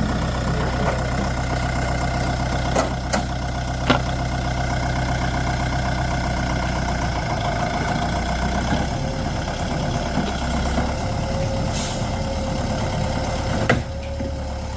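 A small engine running steadily at idle, its hum shifting slightly partway through, with a few sharp clicks over it.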